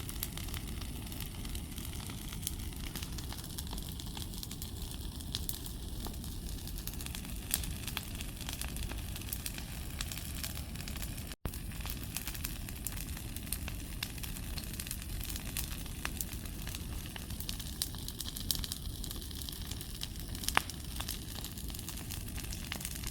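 Big bonfire burning: a steady rushing noise with frequent small crackles and an occasional louder pop.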